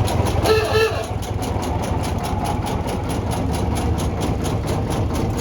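A 1936 narrow gauge locomotive's engine idling, with a steady, fast, even pulsing beat.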